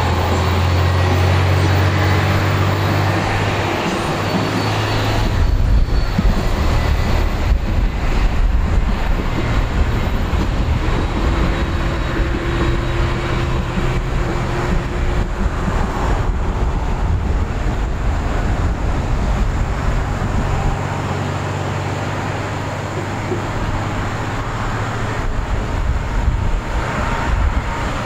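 General Electric CF6 turbofan engines of a Boeing 767-300 running at high power: a loud, steady jet roar with a deep rumble that grows heavier about five seconds in.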